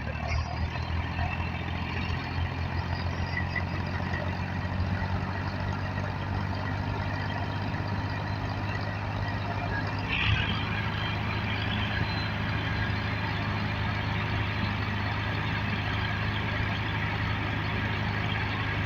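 Ford farm tractor engine running steadily, with a brief sharp sound about ten seconds in.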